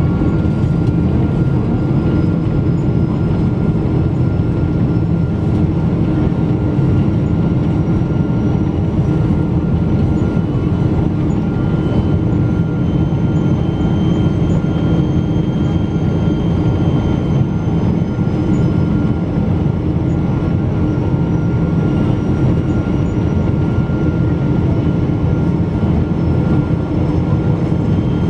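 Steady cabin noise inside a Boeing 777-200 airliner with its jet engines running: a constant deep rumble, with faint thin whines that slowly drift in pitch.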